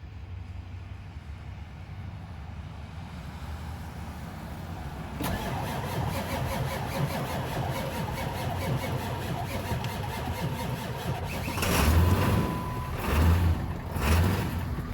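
Ford 7.3 PowerStroke turbodiesel V8 in a 2002 F350 cold-starting at about 22°F after the glow plugs were cycled twice: a low rumble builds for about five seconds, then the engine catches and settles into a steady diesel clatter, with a few louder surges near the end.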